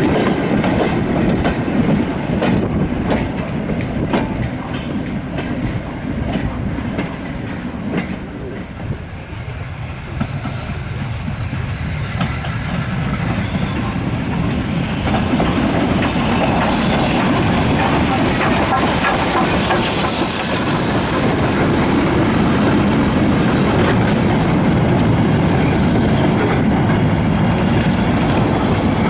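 Goods train of preserved freight wagons rolling past on a heritage railway, wheels clattering over the rail joints. The noise fades about a third of the way in, then builds again and stays loud.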